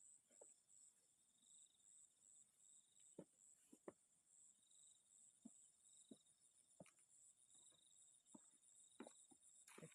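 Near silence with a faint night insect chorus: two steady, pulsing high-pitched trills of chirring insects. About nine faint sharp clicks are scattered through it.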